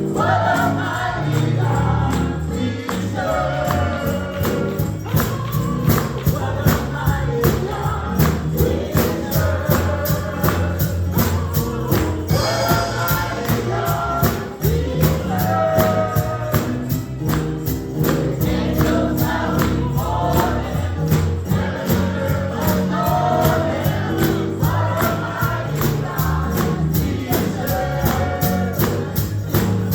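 Gospel music in church: a choir singing over a band that keeps a steady, driving beat.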